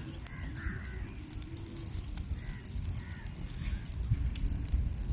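Birds calling: a string of short arching calls in the first three seconds or so, over a steady low rumble and scattered sharp clicks.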